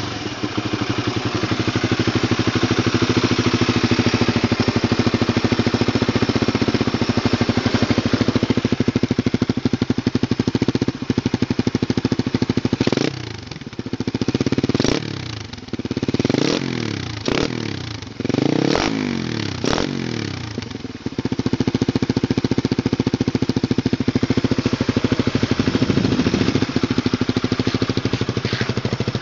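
Honda CBR150R's single-cylinder four-stroke engine idling through its exhaust. About halfway through it is revved in a series of quick throttle blips, each rising and falling in pitch, then settles back to a steady idle.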